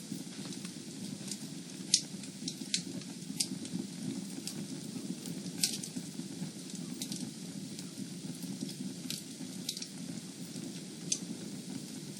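Fire burning in a fireplace, crackling: a steady low rush of flame with irregular sharp pops, the loudest about two seconds in and again near the middle.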